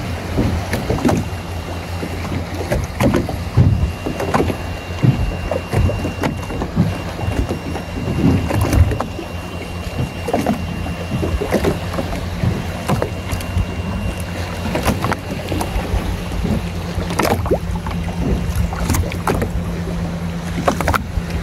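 Boat engine running steadily with a low hum, with scattered short knocks.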